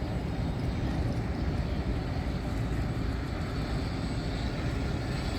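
A steady, even motor drone with no changes in pitch or level.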